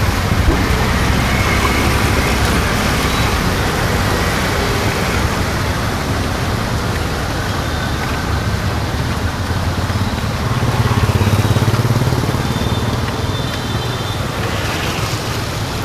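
Road traffic: vehicle engines running and passing, one swelling loudest about eleven seconds in, over a steady hiss.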